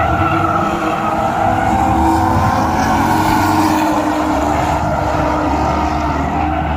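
Drift car's engine running hard on the track, its pitch rising and falling as the driver works the throttle, with tyre noise swelling about halfway through.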